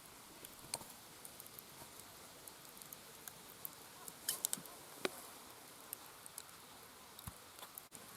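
Conifer firewood burning and crackling: irregular sharp pops and snaps over a faint steady hiss, with a cluster of louder pops about four to five seconds in.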